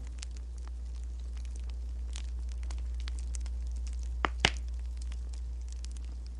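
Wood fire crackling, with small irregular pops over a steady low hum. Two sharper, louder clicks come close together a little past four seconds in.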